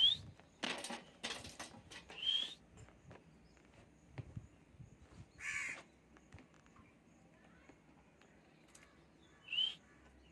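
Pet lovebirds calling: a few short, shrill rising chirps spaced seconds apart, with harsh screechy calls about a second in and again around the middle.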